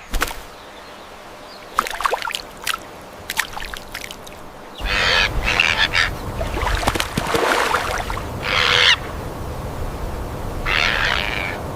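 Harsh, raspy bird squawks. A few short clicking notes come first; then, from about five seconds in, several loud squawks follow, each lasting half a second to a second, over a low background rumble.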